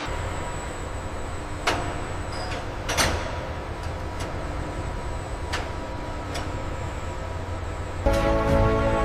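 Steady low mechanical rumble with a few sharp metallic clanks, the loudest about two and three seconds in. Music comes in near the end.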